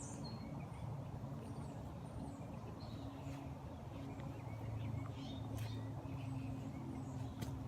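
Steady low hum of a distant motor, with a few faint, short bird chirps over it.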